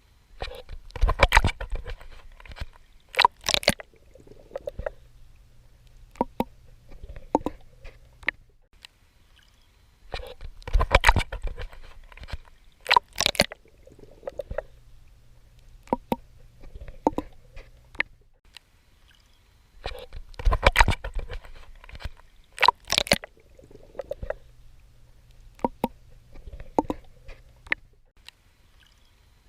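Swimming in water: clusters of splashing, sloshing strokes that come back about every ten seconds, with fainter clicks and water movement between them.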